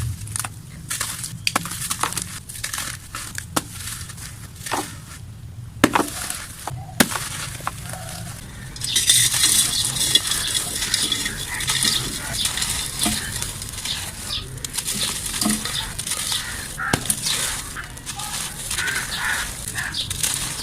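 Chunks of dried mud being snapped and crumbled: scattered sharp snaps at first, then a dense, continuous crunching and crackling from about nine seconds in.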